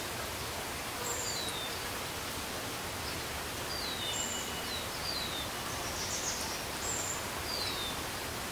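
Steady outdoor background hiss with short, high-pitched bird chirps every second or so, several of them quick falling notes.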